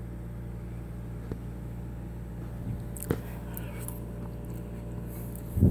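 A person quietly chewing and eating noodles over a steady low hum, with a few faint clicks about three seconds in and a short louder sound near the end.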